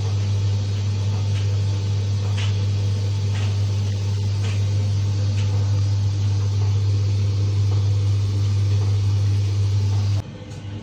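Haier front-loading washing machine running at the start of a wash cycle: a loud, steady mains hum with faint ticks about once a second, which cuts off suddenly about ten seconds in.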